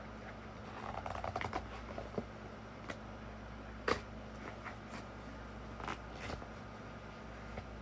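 Scattered clicks, taps and crinkles of cardboard and plastic toy packaging being handled, with a short run of crackling about a second in and sharp single clicks near four and six seconds. A faint steady hum lies underneath.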